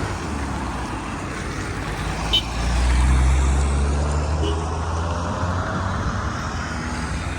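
Motor vehicle engine and road noise: a steady low drone that swells louder about two and a half seconds in, with a short click just before the swell.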